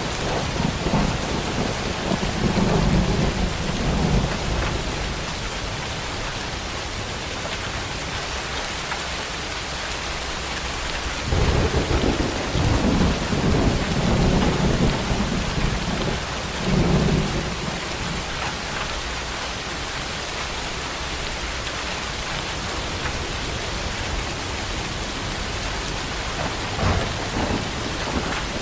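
Heavy tropical rain falling steadily, with rolls of thunder rumbling in swells near the start, again for several seconds in the middle, and briefly near the end.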